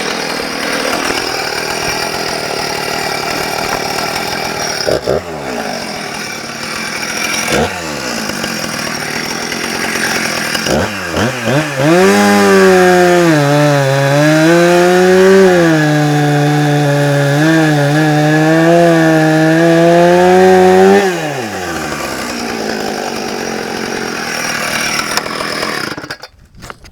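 Two-stroke chainsaw with a Rotatech chain: running with a few quick throttle blips, then from about twelve seconds in louder and steady under load for around nine seconds as it cuts wood. It then drops back in pitch and shuts off near the end.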